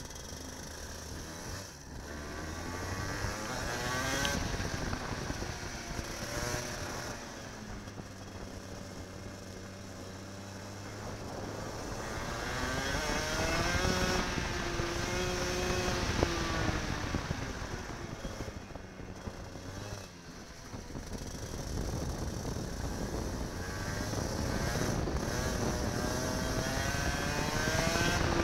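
Go-kart engine heard onboard, its pitch climbing as it accelerates and dropping as it slows for corners, several times over.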